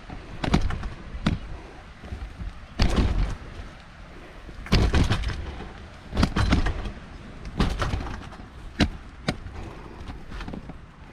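A run of irregular dull thumps and knocks, about one every second or so, over a steady faint hiss.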